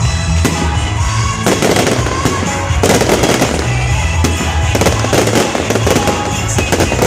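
Fireworks bursting and crackling over loud music. The crackle grows much denser about a second and a half in.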